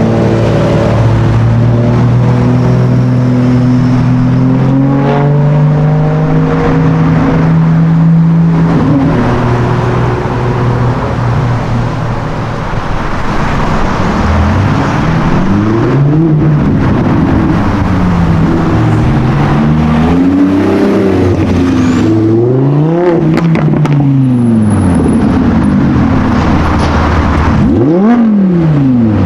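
A supercar engine running at a steady note, then revved again and again, its pitch rising and falling with each blip of the throttle.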